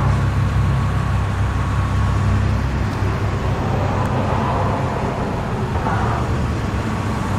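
Steady low rumble of motor-vehicle noise, with a faint steady whine above it.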